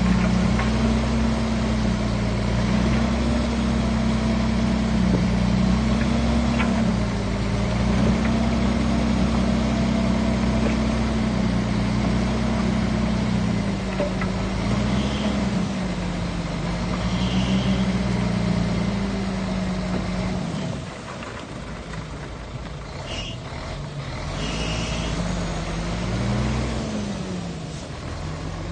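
Heavy diesel engine of a Shantui bulldozer working, its pitch rising and falling repeatedly as the load changes while it pushes soil. About twenty seconds in it drops to a lower, quieter note, then picks up again near the end, with a few short high squeaks along the way.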